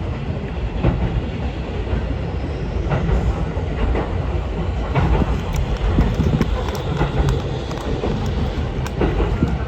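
Ichibata Electric Railway Kita-Matsue Line electric train running, heard from inside the car: a steady low rumble of wheels on track with irregular knocks over the rail joints about every one to two seconds.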